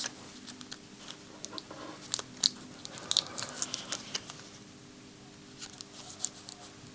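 Scattered light clicks and crinkles of a small electronic part being handled and positioned on a circuit board, over a faint steady hum.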